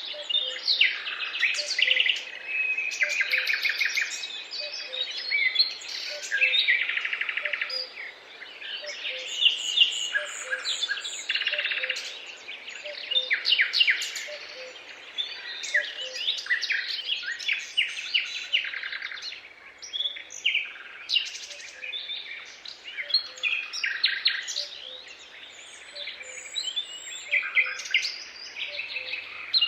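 Several songbirds singing and chirping at once, a dense chorus of overlapping trills and short calls.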